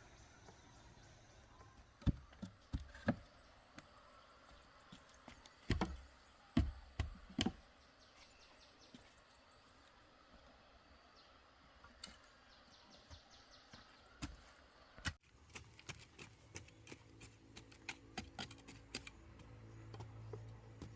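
Faint outdoor background with scattered sharp knocks and thumps, several of them close together in the first half, then a quicker run of light clicks and taps.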